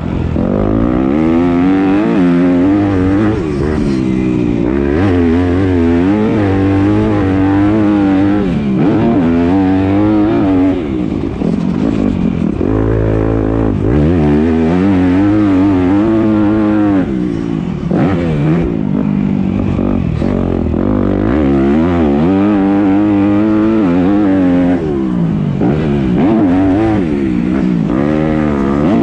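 Yamaha YZ250F 250 cc four-stroke single-cylinder motocross engine heard up close from onboard, revving up and down without a break as the rider works the throttle and gears through the track. There are a few brief drops in revs between the pulls.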